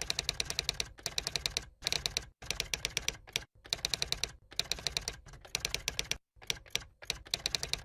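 Rapid typing clicks in short runs with brief pauses between them, like a keyboard or typewriter sound effect.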